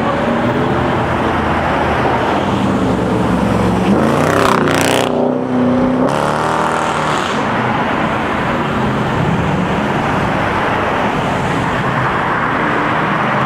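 A car drives past with its engine running. Its pitch climbs as it comes near and drops as it goes by, about five seconds in, with other engine and traffic noise under it throughout.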